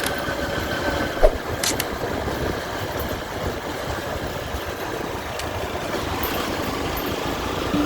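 Motorcycle running on the road with steady wind noise over the microphone, and a short knock about a second in.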